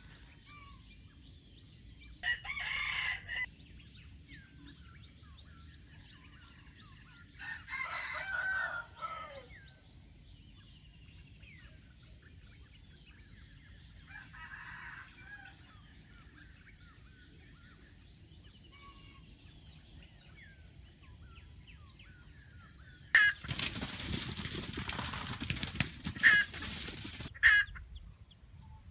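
A rooster crows three times, the third faint, over a steady high-pitched insect drone. Near the end comes a loud burst of rustling noise with a few sharp clicks, the loudest sound of all.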